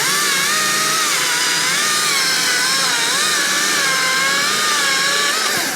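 Stihl MSA 220 battery-powered chainsaw running under load, its motor whine wavering in pitch as it cuts, with a deliberately dulled chain, then winding down near the end.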